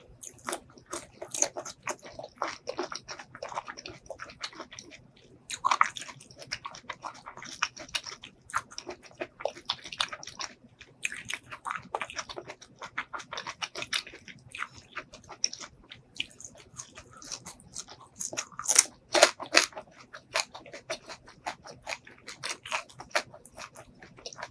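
Close-miked chewing of a crisp raw vegetable strip: irregular wet crunching and crackling, with louder crunches about six seconds in and again around nineteen seconds in.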